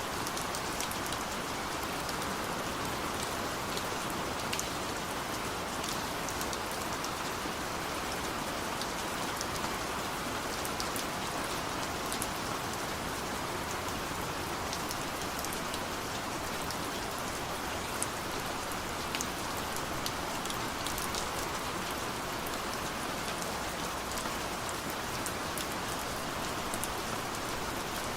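Steady rain falling: a continuous even hiss, with many small sharp ticks of individual drops scattered through it.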